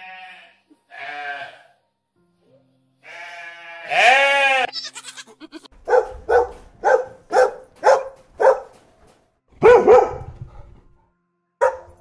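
A goat bleating: two short bleats, then a long wavering bleat about three seconds in. From about six seconds in, a dog barking in an even run of about seven barks, roughly two a second, then a louder bark near ten seconds and two more near the end.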